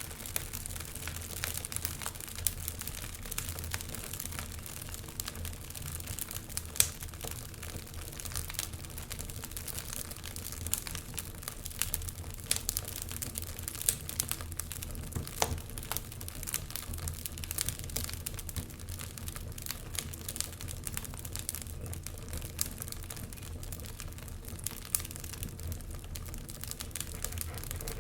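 Wood fire crackling in a fireplace: a steady stream of small snaps and pops over a low rumble, with one sharper pop about a quarter of the way in.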